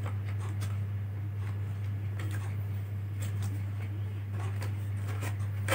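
Steady low electrical hum with a few faint, scattered clicks and light knocks of a hard-drive caddy being handled and fitted into an opened laptop.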